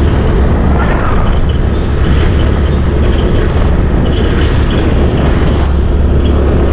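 Steady rush of wind on the microphone of a camera riding on a moving motorbike, with the bike's engine running underneath.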